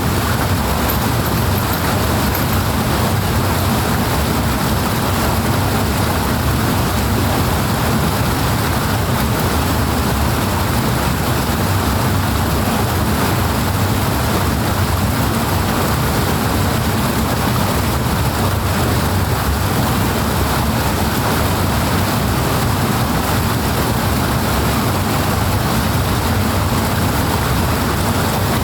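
Powerful rushing water, a loud steady roar of noise with most of its weight in the low range and no change throughout.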